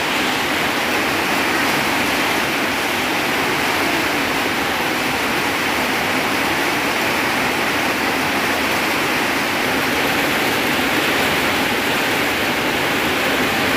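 Heavy rain pouring steadily, splashing into puddles on a waterlogged dirt yard: a dense, even rush of rain noise.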